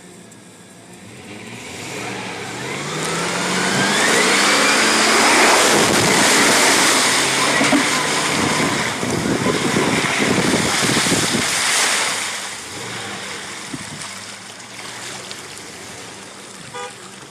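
Truck engine revving up hard while the tyres spin and churn through deep mud as a stuck truck is pulled out on a tow strap. The revs climb over the first few seconds, the spinning and spraying of mud is loudest in the middle, and it eases off about twelve seconds in.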